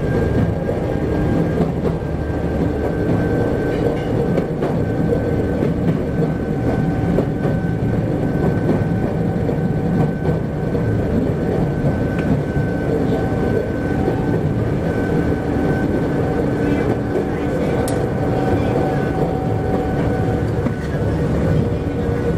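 Chichibu Railway 7500 series electric train running along the line, heard from inside the front car. A steady whine carries over the continuous rumble of the wheels on the rails.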